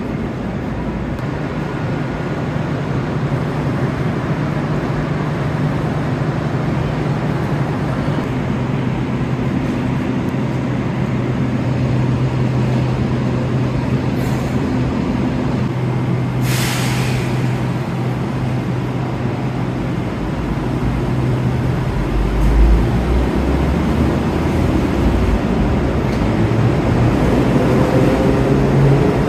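Enoden electric train standing at a platform with a steady low electrical hum. About 17 seconds in there is a short sharp hiss of compressed air being released, like an air brake. Later a low rumble comes in, and near the end a faint rising motor whine as a train starts to move.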